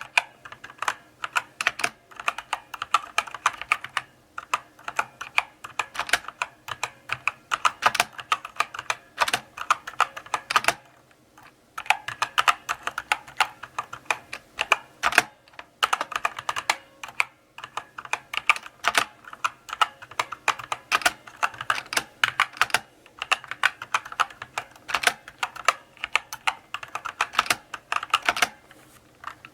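Slow, steady typing on a mechanical keyboard: a run of sharp key clicks several a second, with a short pause about eleven seconds in.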